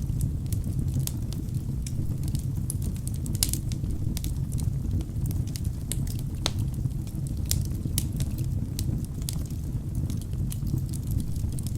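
Wood fire burning in a fireplace: a steady low rumble of flames with irregular sharp crackles and pops from the burning logs, a louder pop about three and a half seconds in and another about six and a half seconds in.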